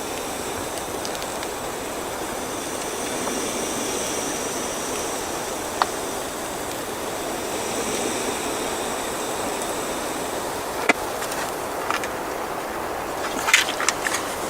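Steady rushing noise with a few sharp clicks and knocks, the loudest cluster near the end.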